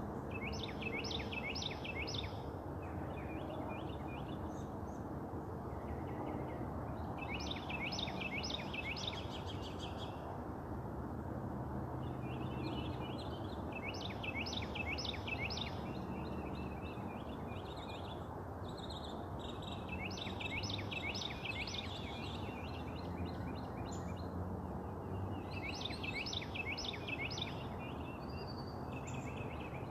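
A songbird singing the same short phrase of four or five quick, sharp notes about every six seconds, over a steady low rumble of background noise.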